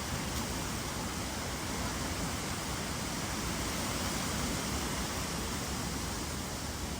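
Wind blowing through trees: a steady rushing noise with no distinct events.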